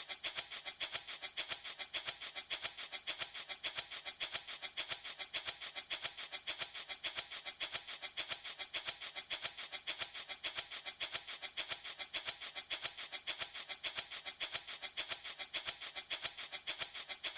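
Handmade wooden baby rattle shaken in a steady, even rhythm, its beads rattling crisply on every stroke.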